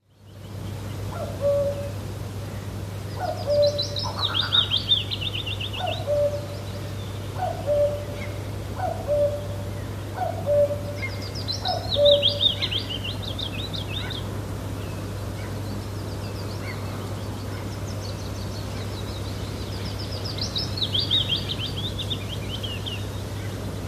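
Birds calling: a low, short call repeated about every second and a half through the first half, and a higher, fast trilling song in three bouts, the last near the end. A steady low hum lies underneath.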